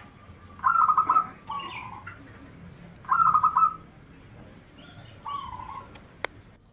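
Zebra dove (perkutut) cooing song: two loud phrases, each a quick stutter of notes running into lower coos, about two and a half seconds apart, then a fainter phrase. A single sharp click near the end.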